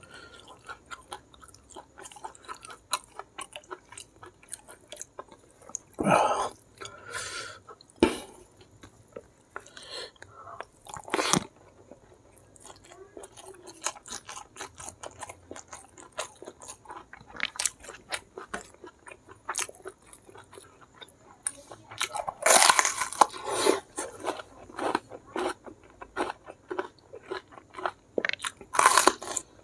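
Close-up chewing and crunching of a mouthful of rice, blood cockles and petai in chili sambal, in irregular wet clicks with louder crunches now and then. Just before the end comes a loud crisp crunch as a raw bitter melon is bitten.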